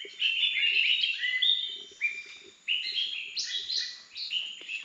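Several birds chirping at once, many short whistled notes crowding over one another.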